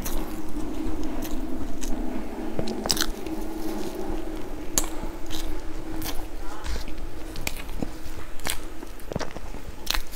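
Close-up mouth sounds of eating crumb-coated cake by hand: chewing and biting with scattered sharp, crackly clicks. A steady low hum runs underneath and fades out about nine seconds in.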